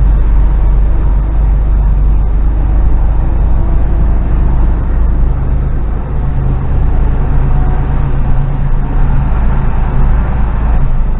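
Diesel engine of a fully loaded HGV lorry running steadily, heard from inside the cab with the window open.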